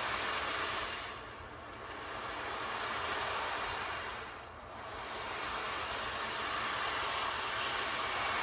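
Wave board (ocean drum): beads rolling across the board as it is tilted, making a rushing, surf-like wash that swells and ebbs, with dips about a second and a half and four and a half seconds in.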